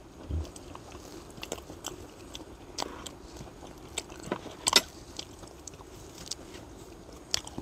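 A person chewing and biting food close to the microphone, with scattered short clicks, the sharpest a little before five seconds in.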